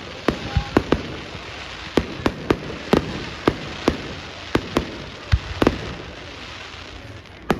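Fireworks display: an irregular string of sharp bangs, often several a second, over a continuous crackle, thinning out in the second half, with one more loud bang near the end.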